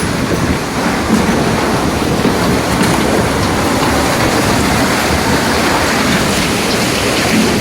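Wind from an EF0 tornado passing overhead: a loud, dense, steady rushing roar with no breaks.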